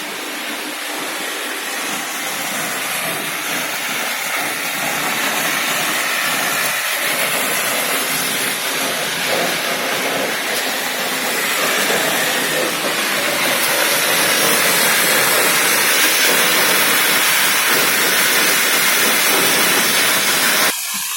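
Shotcrete being sprayed through the nozzle of an AS-1 Tornado shotcrete machine: a steady compressed-air hiss and rush that grows a little louder, then drops sharply near the end.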